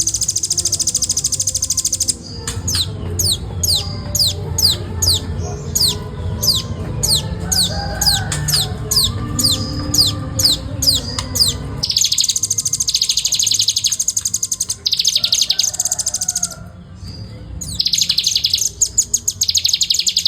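Velvet-fronted nuthatch calling: very rapid high trills that break off for a while into a run of sharply falling whistled notes at about two a second, then resume.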